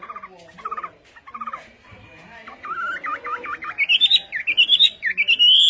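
A songbird singing, with short trills first, then quick repeated looping notes that climb higher and get louder over the last few seconds.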